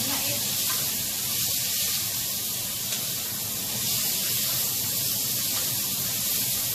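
Thin beef strips sizzling steadily in hot oil in a skillet as they are stir-fried with a wooden spatula.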